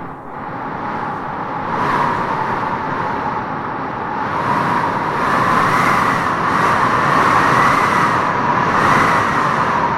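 Howling wind gusting through trees: a steady rush with a wavering, whistling howl that swells and rises in gusts, strongest in the second half.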